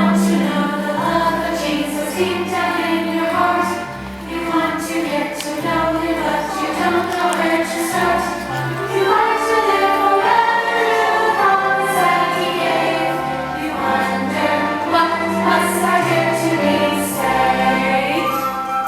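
A group of voices singing a Christian song along to instrumental accompaniment with a moving bass line.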